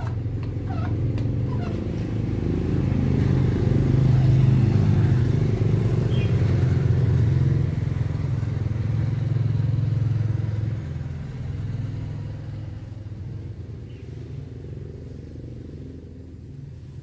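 A motor vehicle's engine running, a low rumble that grows louder over the first few seconds and then fades away over the last several seconds, like a vehicle passing by.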